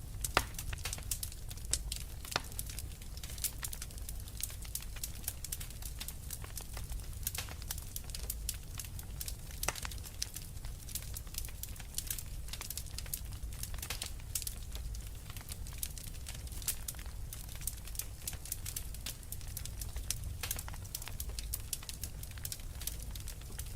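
Fire in a fireplace crackling: a dense, irregular stream of small pops and snaps, with a few louder ones, over a steady low rumble.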